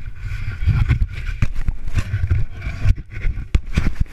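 Hand-held snow mould being packed with snow: repeated crunches and sharp knocks over a low rumble.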